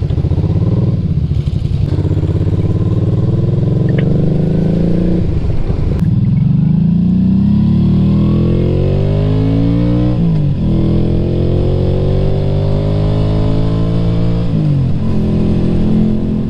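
Honda V-Twin Magna 250's 250 cc V-twin engine pulling away and accelerating through the gears: the pitch rises steadily and drops sharply at each upshift, about three times.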